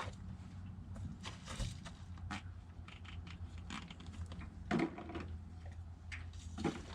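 Scattered light clicks and taps of small engine parts being handled, over a steady low hum.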